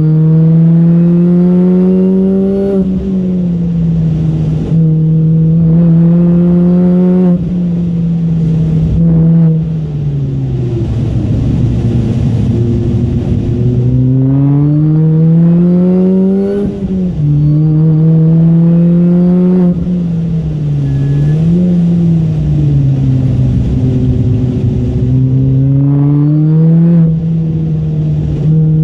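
MINI Cooper S four-cylinder engine heard from inside the cabin, revving hard through the gears: its pitch climbs under full throttle, drops suddenly at each upshift, and falls away for a few seconds about ten seconds in as the car slows for a tight corner before climbing again.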